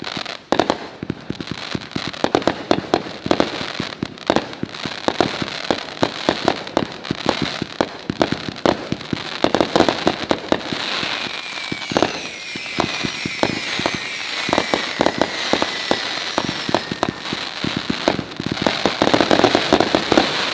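A consumer 176-shot XL aerial finale cake firing: rapid launch thumps and bursts with crackle, a falling whistle about halfway through, and a denser, louder volley near the end.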